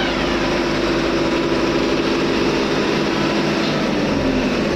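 Ship's engine-room machinery running loudly and steadily. At the very start a high whine finishes sliding down in pitch, and through the second half a lower hum slowly falls, like electric motors spinning down after a power cut.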